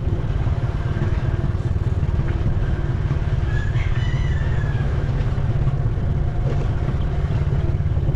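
Motorbike engine running over a bumpy dirt road, with wind buffeting the microphone in a heavy low rumble. A rooster crows once, about halfway through.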